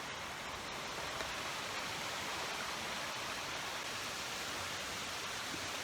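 Steady rush of a river flowing through a gorge, an even noise with no distinct events.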